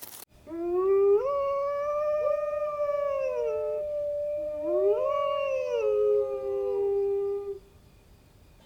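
A dog howling: long, drawn-out howls that rise, hold and then slide down, with a second howl rising over the first about four and a half seconds in.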